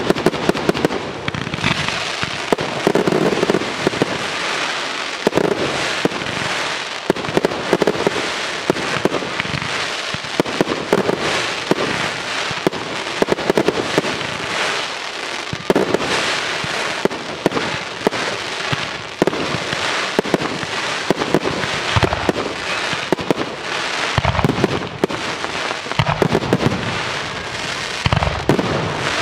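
Fireworks display: a fast, continuous barrage of aerial shell bursts and crackle, many bangs a second with no let-up, with deeper booms in the last several seconds.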